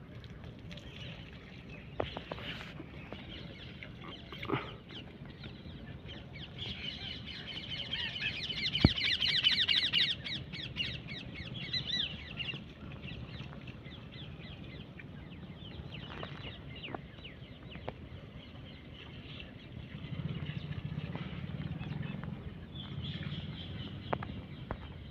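Birds calling, loudest in a rapid chattering call that lasts about four seconds in the middle, with scattered light clicks and knocks.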